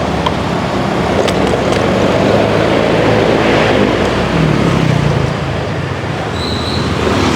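Motorcycle riding on the road: steady wind rush with the engine running underneath, its note shifting about four to five seconds in.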